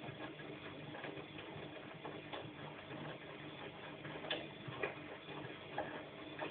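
Bosch washing machine in its wash cycle: a steady motor hum with irregular light clicks and knocks as the drum turns the laundry, a few knocks louder in the second half.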